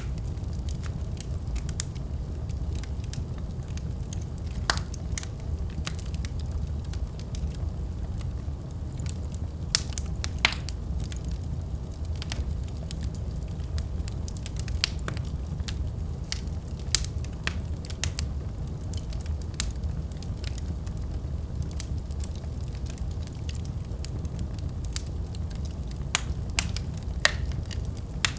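Wood fire burning in a fireplace: a steady low rumble of the flames with frequent crackles and now and then a sharp louder pop.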